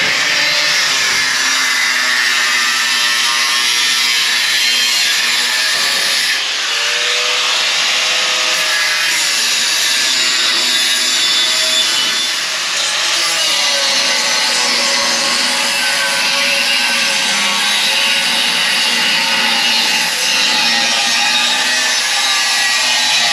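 Power tool cutting through a metal exhaust pipe to remove the muffler: a loud, continuous cutting noise with a motor whine that wavers in pitch as it works.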